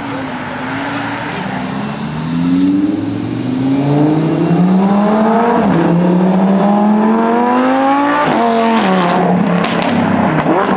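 Lamborghini engine revving hard as the car accelerates, its pitch climbing through a gear, dropping at an upshift about six seconds in, climbing again and shifting once more about eight seconds in. Near the end there are a few sharp crackles.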